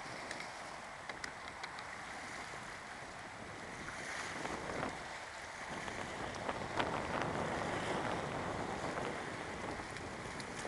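Jet ski out on the water: a steady rush of wind on the microphone and water, with small sharp slaps and splashes, growing louder about halfway through.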